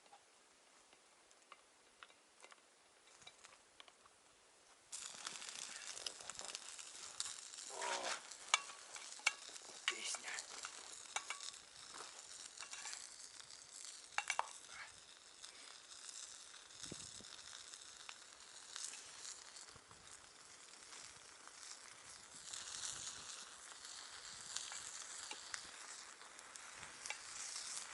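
Canned stewed meat sizzling over a campfire: a dense crackling hiss with small pops that starts abruptly about five seconds in and carries on steadily.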